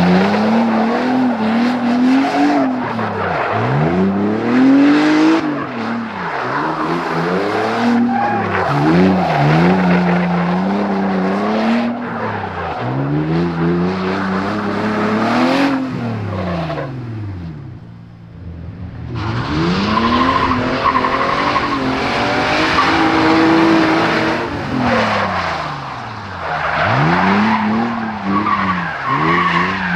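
BMW E30's M54B30 3.0-litre straight-six revving up and down again and again through fast drifting turns, with the spinning rear tyres skidding and squealing. About two-thirds of the way through, the tyre noise stops for a moment and the engine falls back before revving hard again.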